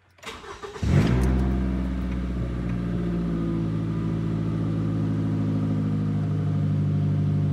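Scion tC four-cylinder engine cranked by the starter and catching about a second in with a brief flare, then settling into a steady cold idle. The axle-back exhaust has been removed so it runs through an open dump, and from inside the cabin the idle is not much louder than stock.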